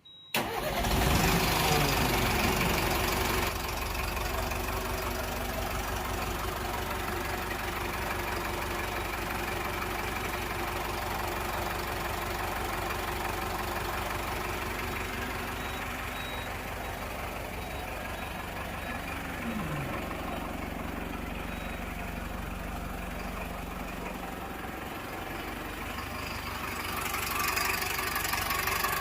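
Engine coming in abruptly and running at a steady idle, a little louder for the first few seconds.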